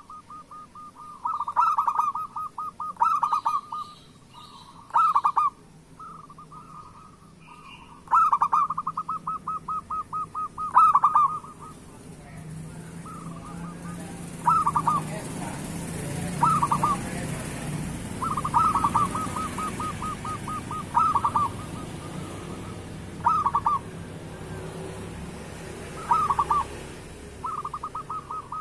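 Zebra dove (perkutut) cooing: repeated phrases, each a fast run of pulsed, rattling coos, with short pauses between them. From about halfway, a steady low hum sits under the calls.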